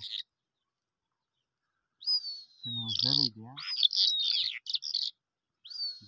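Bird calling: quiet at first, then about two seconds in a high, falling whistle with quick chirps over lower wavering notes, starting again near the end.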